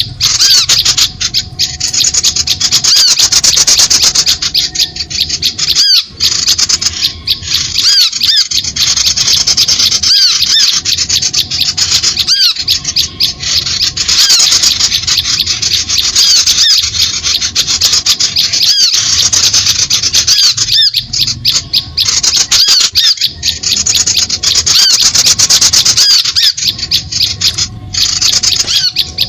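Bird-trapping lure recording: a loud, dense, nearly unbroken chorus of harsh, scratchy chattering and squeaking calls of small birds, with short gaps every couple of seconds.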